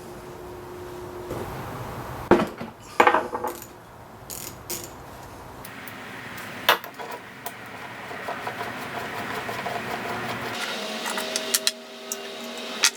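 Hand tools and small metal parts clinking and knocking during work on a dirt bike's brake caliper: a few separate sharp clicks over a steady background hum that shifts abruptly twice.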